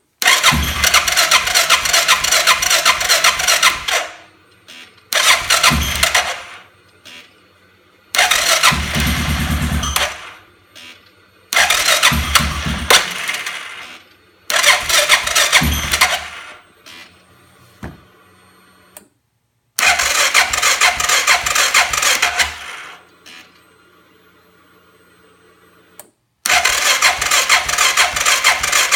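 The electric starter on a 2005 Suzuki King Quad 700's single-cylinder engine cranks in seven separate tries of one to four seconds each, and the engine never catches. This is a no-start after fitting a Copperhead VDI aftermarket ECU, which the ECU maker blames on battery voltage sagging to about 8 V during cranking.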